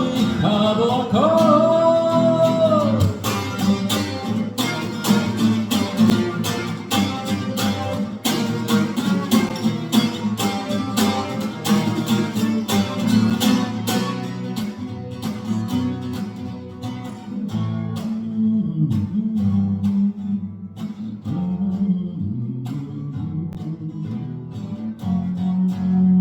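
A man's voice holds a last wavering sung note over an acoustic guitar for the first few seconds, then the acoustic guitar plays on alone with quick, even strokes.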